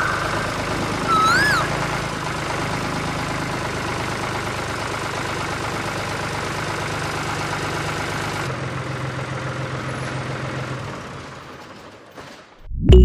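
A motor or engine running steadily, with a short whistle-like chirp about a second in. The running sound fades out near the end.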